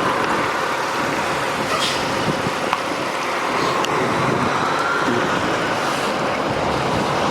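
Steady vehicle noise of trucks and traffic running nearby, with a faint rising whine about halfway through.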